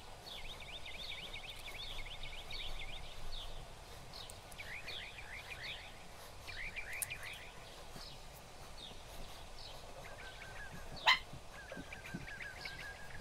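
Faint birdsong: repeated quick trills of short chirps, with a steadier whistling note near the end. A single sharp click about eleven seconds in.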